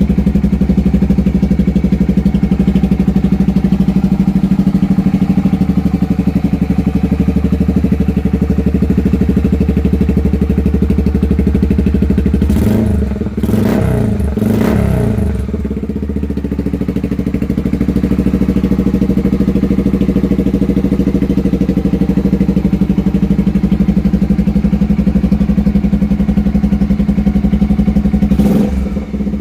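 Honda XBR500's single-cylinder four-stroke engine idling steadily on its first start-up. It is revved up and back down a few times about halfway through, and briefly once more near the end.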